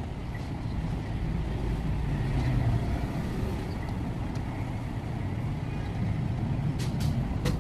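Steady low rumble, with a few sharp clicks near the end.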